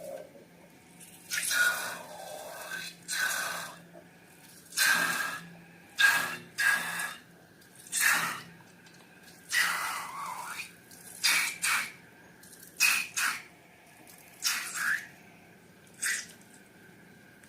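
Slime being squeezed and worked by hand, giving about a dozen short, sticky, wet squelches at irregular intervals.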